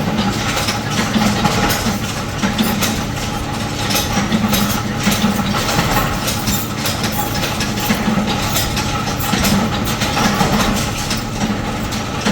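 Workshop machinery running steadily, with a pulsing hum under frequent irregular metallic clicks and knocks.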